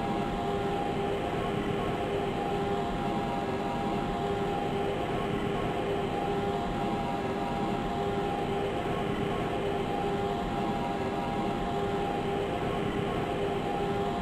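Lisbon Metro ML90 train running steadily, heard from on board: a constant rolling rumble with a steady, unchanging hum over it.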